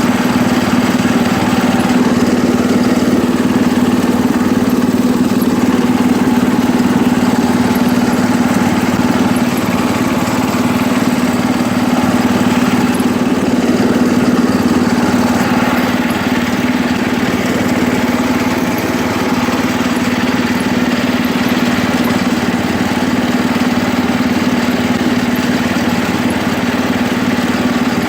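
1973 International Harvester Cub Cadet 86 garden tractor's single-cylinder Kohler engine running at a steady speed, one unchanging drone.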